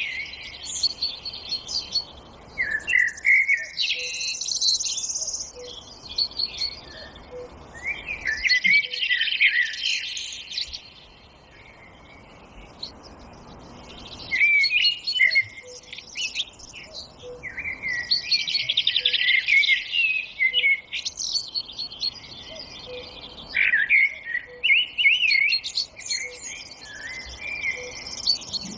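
Several songbirds singing in a forest, with overlapping high whistled phrases, chirps and rapid trills, and a brief lull about halfway through.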